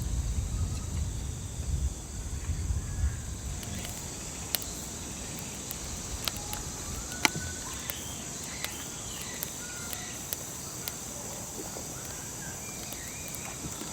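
Steady chirring of insects in a forest, with short bird chirps from about four seconds in and scattered light clicks. A low rumble is under the first few seconds.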